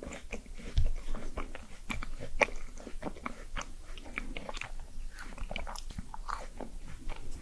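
Close-miked mouth sounds of a person eating: biting and chewing, with many irregular sharp clicks and crunches.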